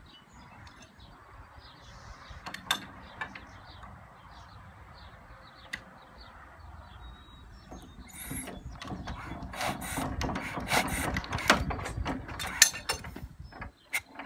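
Engine being turned over by its hand crank with the compression release open: a few scattered clicks, then from about halfway a louder, dense mechanical clatter of the crank and valve gear that stops abruptly near the end. The engine does not fire; the start attempt fails.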